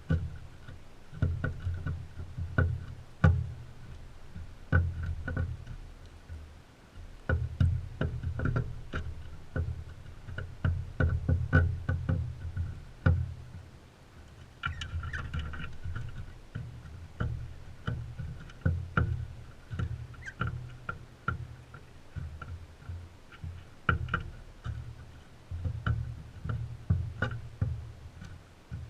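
Crimson rosellas feeding right beside a GoPro: irregular sharp clicks and knocks of beaks on seed and feeder, with dull thumps as the birds bump the feeder or camera. A short bird chirp comes about halfway through.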